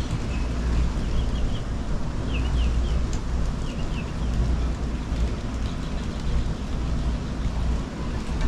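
Heavy rain falling steadily over a low rumble, with small birds giving a few short high chirps in the first half.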